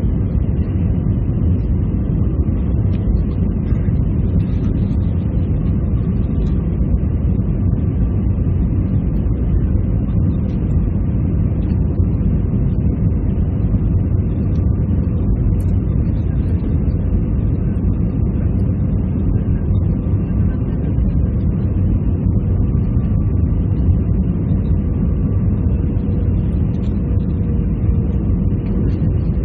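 Steady cabin noise inside an Airbus A320-214: an even, unbroken rumble of its engines and airflow, heaviest in the low range, with a faint steady hum on top.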